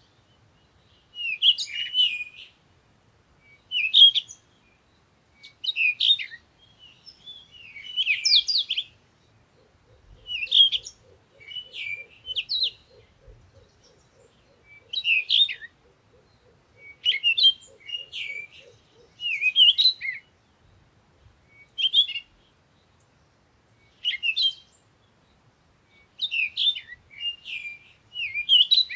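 Songbirds chirping in short, bright phrases, one every second or two. A faint, low, rapid pulsing runs under them through the middle stretch.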